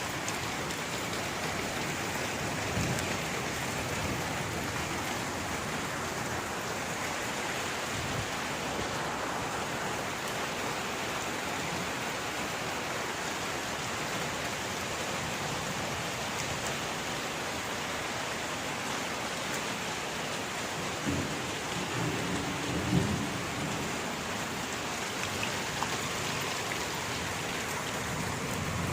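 Steady rain falling, an even hiss of drops. A few low rumbles come through it, the strongest about two-thirds of the way in.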